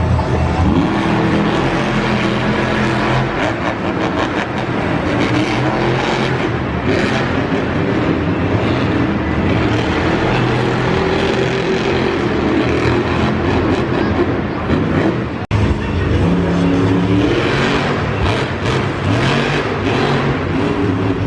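Loud monster truck engines running and revving, their pitch rising and falling, with a brief sudden break about fifteen seconds in.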